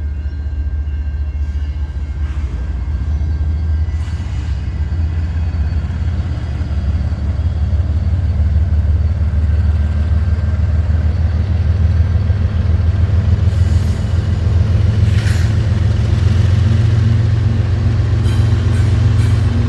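Northbound CSX intermodal freight train led by diesel locomotives, running with a steady low rumble that grows louder over the first half, with a few short clicks later on.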